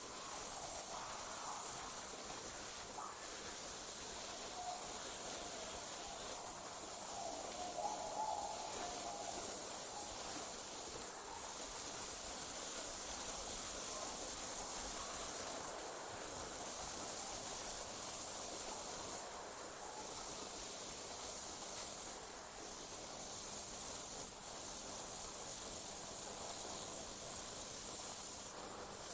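Night insects, crickets, trilling in a continuous high-pitched chorus that drops out briefly every few seconds.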